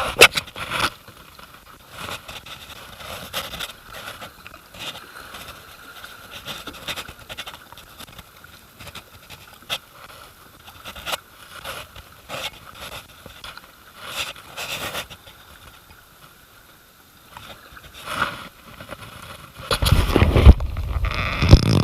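Kayak on a river: scattered knocks, splashes and scrapes of paddle and hull over faint running water, with a louder rush of noise near the end.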